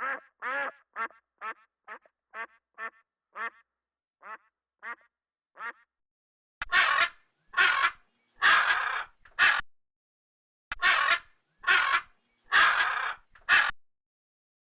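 A duck quacking in a quick run of short calls, about two a second, growing fainter. From about six seconds in, a different animal gives a series of loud, harsh, noisy calls, each half a second to a second long.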